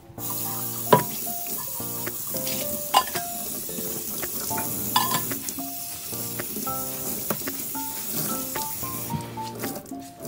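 Food sizzling in a hot frying pan, with a utensil knocking against the pan a few times as it is stirred; the sizzling stops shortly before the end. Soft background music plays under it.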